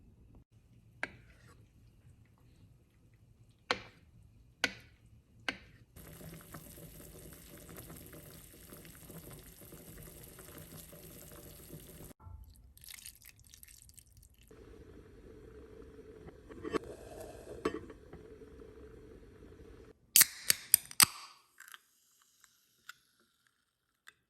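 Small kitchen sounds in short takes: a few light clicks, stretches of steady water-like noise of pouring or running water, and a quick run of loud sharp clinks near the end.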